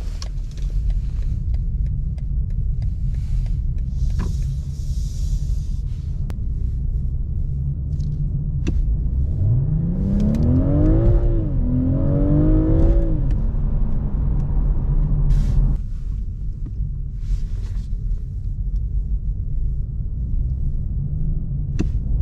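Inside the cabin of a BMW 840i, its 3.0-litre twin-turbo inline-six and the tyres make a steady low rumble. About nine seconds in, the engine note rises under acceleration, steps down at an upshift, climbs again and then eases off. The rumble is quieter for the last several seconds as the car slows.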